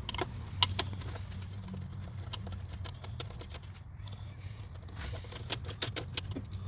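Hand tools clicking and tapping on metal as bolts are undone one after another, in short irregular clicks that come thicker in the second half, over a steady low hum.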